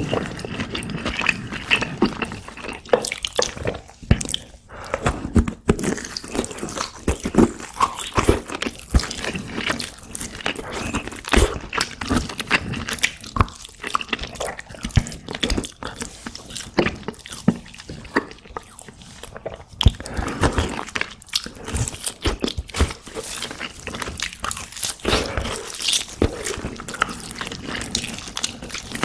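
Close-miked eating: biting the meat off braised pork back ribs and chewing, with a dense run of wet smacking clicks.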